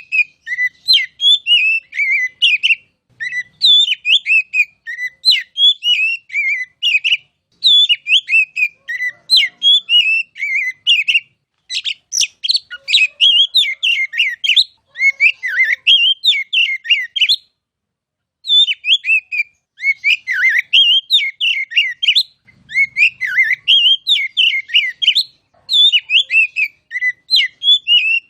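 Oriental magpie-robin (kacer) singing: quick runs of varied whistled and chirped notes that swoop up and down, delivered in phrases, with a pause of about a second roughly two-thirds of the way through.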